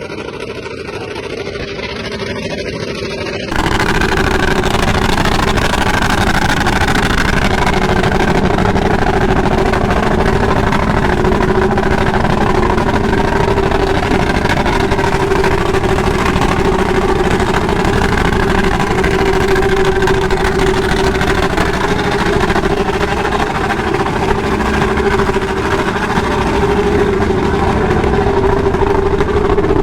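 Motorcycle engine running at a steady pitch, jumping suddenly louder about three and a half seconds in and then holding steady.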